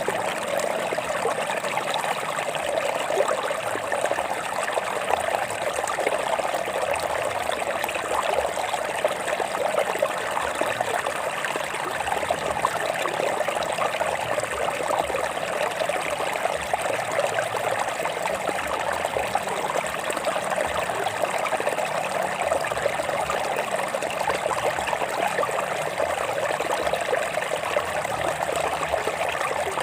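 A stream of water running over rocks, a steady, even rushing and trickling that does not change.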